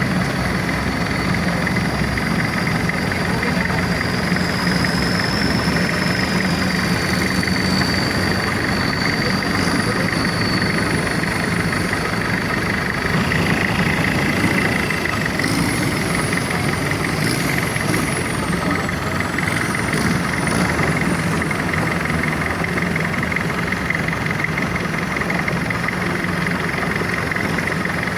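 Boat engine running steadily at a constant speed, with no change in pitch.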